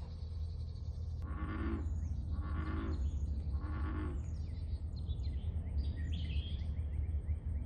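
Unidentified animal calls: three raspy calls about a second apart, then a quick run of high, falling chirps.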